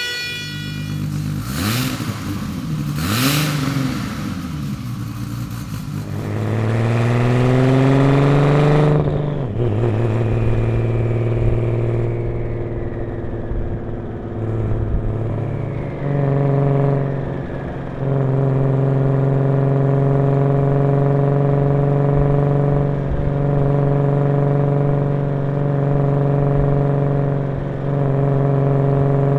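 Toyota Supra MKIV's 2JZ-GTE twin-turbo inline-six running through a Tomei full-titanium 4-inch cat-back exhaust. The revs climb for a few seconds, drop sharply about nine seconds in, then hold at a steady raised speed with a few brief dips.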